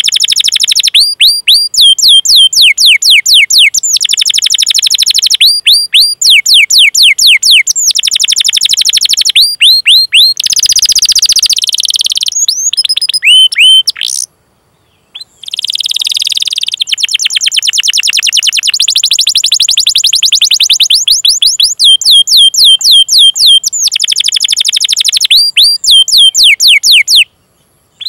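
Domestic canary singing: runs of quick, high whistled 'cuit cuit' notes that each slide downward, alternating with fast rolling trills. There are brief pauses about 14 seconds in and near the end.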